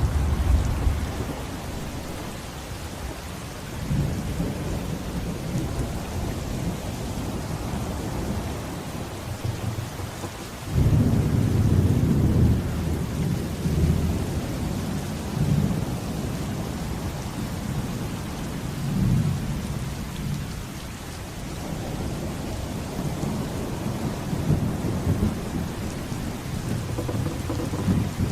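Steady heavy rain with thunder rolling underneath. A sudden loud thunderclap comes about eleven seconds in and rumbles on for a couple of seconds, and lighter rolls of thunder swell and fade through the rest.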